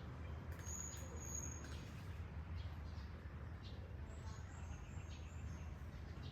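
Faint, high bird chirps, a few short ones near the start and again later, over a steady low background hum.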